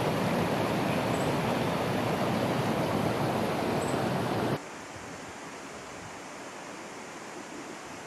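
Steady, loud rushing noise that cuts off abruptly about four and a half seconds in, leaving a quieter steady background hiss.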